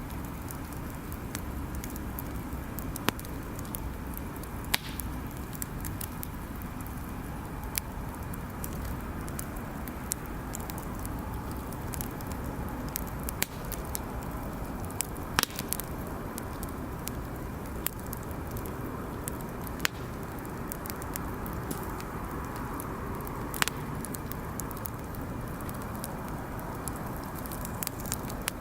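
Wood bonfire burning, crackling, with sharp pops every few seconds over a steady low rush of noise.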